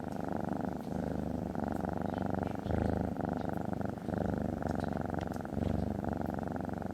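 Domestic cat purring steadily, swelling and dipping in cycles of about a second.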